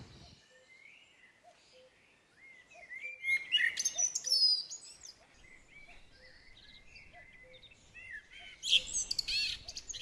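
Songbirds chirping and singing in two short bouts, the first about three seconds in and the second near the end.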